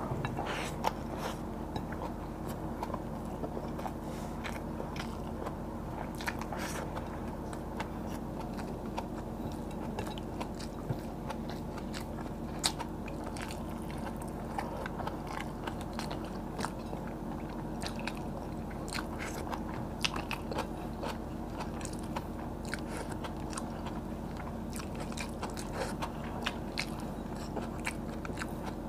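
Close-miked eating of rice and crisp fried tilapia by hand: chewing and biting with many short crunches, clicks and mouth sounds, scattered irregularly over a steady low hum.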